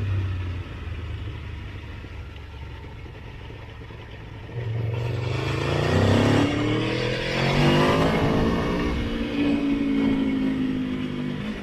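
Motorcycle engine on the move, running low and steady at first. About five seconds in it accelerates, its note climbing in pitch, then holds a steady higher note and eases off near the end.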